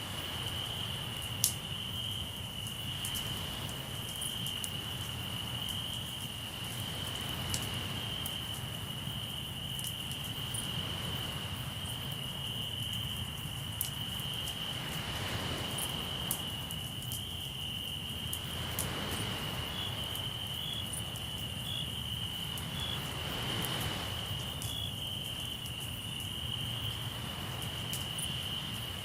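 Crickets trilling steadily on one high pitch. Over it, a campfire crackles with scattered sharp pops, the loudest a little over a second in. Waves swell and wash in a few times, about every four or five seconds.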